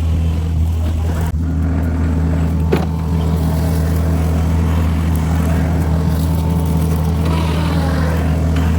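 John Deere 50P compact excavator's diesel engine running at a steady speed while it works a hydraulic brush mower on the boom, an even drone. A brief knock comes about three seconds in.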